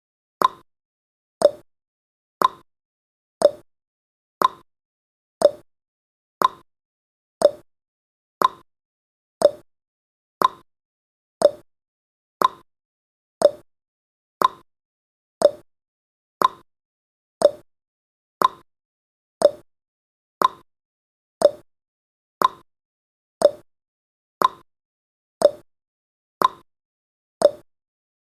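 Countdown timer's ticking sound effect: a short, sharp tick once every second, evenly spaced.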